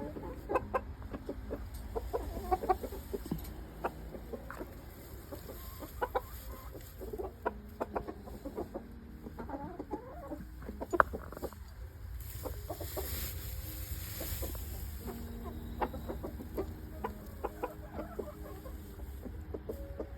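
A flock of chickens clucking softly in the coop: many short, scattered low clucks and murmurs from several birds. A brief rustle runs for a couple of seconds about two-thirds of the way through.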